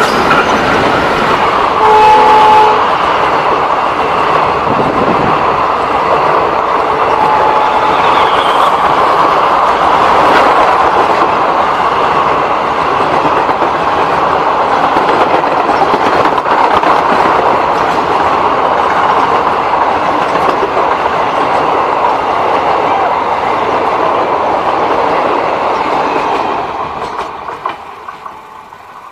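An Indian Railways diesel-hauled passenger train passes close by. The locomotive goes first, then the coaches clatter over the rails. A short two-tone horn blast sounds about two seconds in and a briefer one a few seconds later, and the noise fades near the end as the train draws away.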